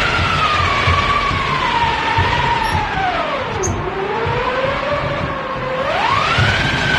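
Foley wind effect made with props: a howling gale, a whistling tone over a rushing hiss. The howl slides down to its lowest about three and a half seconds in and climbs sharply again about six seconds in.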